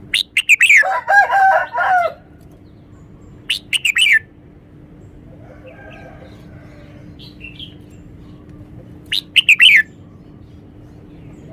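Red-whiskered bulbul singing in three loud bursts of quick whistled notes: a phrase of about two seconds at the start, a short one about three and a half seconds in, and another about nine seconds in. Fainter bird calls sound in between.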